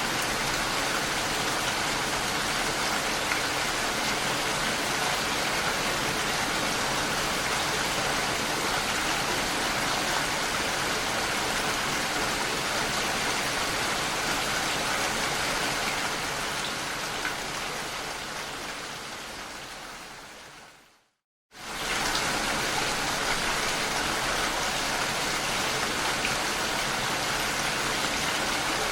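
Steady rain falling. About two-thirds of the way through it fades out over a few seconds to a brief moment of silence, then comes straight back at full level, as at the loop point of a rain recording.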